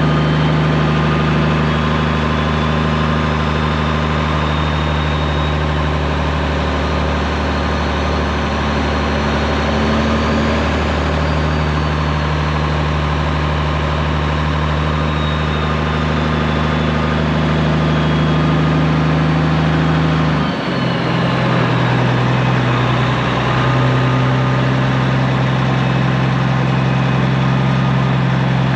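Straight-piped Peterbilt 389 semi truck's diesel engine running steadily under a load of soybeans. About two-thirds of the way in the engine note drops abruptly to a lower pitch with a brief dip, as in a gear change, then runs steady again.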